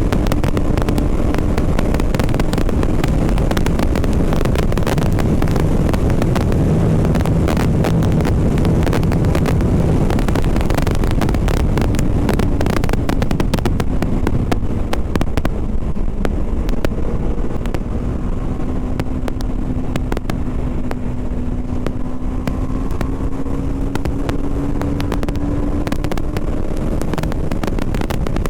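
BMW G 310 RR's single-cylinder engine running under way, with wind rushing over the helmet microphone. The wind noise eases about halfway through, and the engine's pitch then rises slowly as the bike picks up speed.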